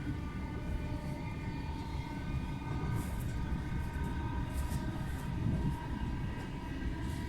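Train running, a steady low rumble with a faint steady whine and a few light clicks.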